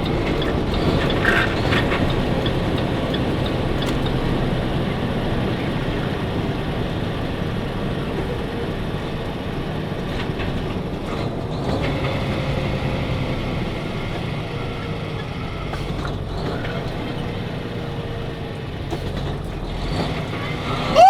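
Semi-truck engine and road noise heard from inside the cab while driving, a steady drone; about halfway through a faint tone from the drivetrain drops slowly in pitch for a few seconds.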